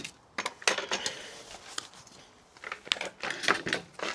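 Wooden branches being handled and cut on a workbench: an irregular run of sharp clicks, knocks and clatters.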